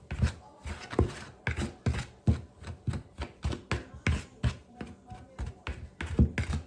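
A utensil repeatedly striking and scraping a mixing bowl as shortening is cut into flour for dumpling dough, about three sharp knocks a second, somewhat uneven.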